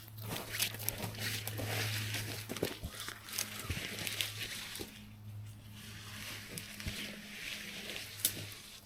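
Rustling and crackling of dry leaves and twigs on the forest floor, busier in the first half and sparser after, over a steady low hum.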